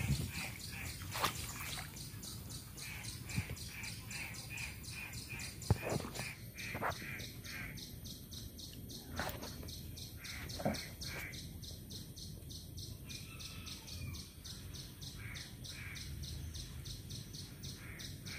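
Outdoor pond-side ambience: a bird calling in quick repeated chirps, about three to four a second, over a steady high ticking. A few short soft knocks come through now and then.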